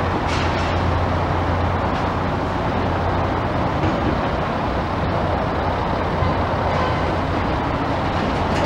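Steady, loud rumble of a moving vehicle with a constant low hum and no breaks.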